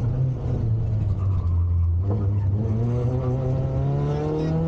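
Peugeot 106 Rallye rally car's four-cylinder engine heard from inside the cabin, holding fairly steady revs for about two seconds. After a short knock, its pitch climbs steadily as the car accelerates hard.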